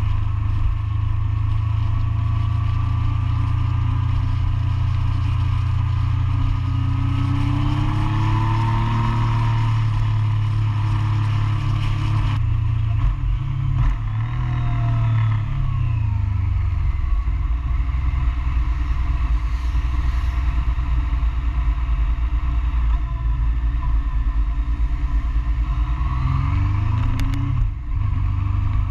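Motorcycle engine heard onboard while riding, over steady wind noise. The revs climb about a third of the way in, fall away around the middle, and climb again near the end with a brief dip.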